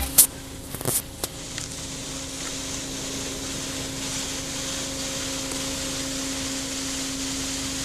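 Steady hiss with a constant low hum, with a few sharp clicks in the first second or so.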